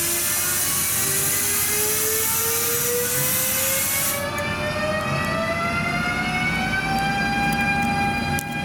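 A locomotive accelerating, its whine rising slowly and steadily in pitch. A high hiss runs alongside it and cuts off suddenly about four seconds in.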